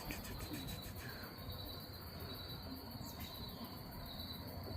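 Insects trilling in one steady, unbroken high-pitched drone, over faint low background noise.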